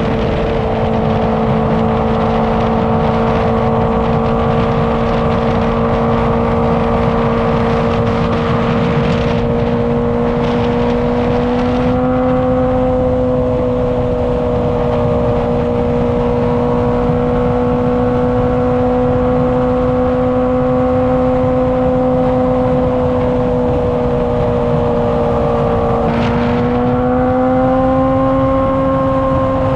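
Honda CBR600RR inline-four sport bike engine and exhaust holding a steady high-revving note at highway speed, with wind rush. The pitch steps up slightly partway through, then dips briefly and climbs again near the end.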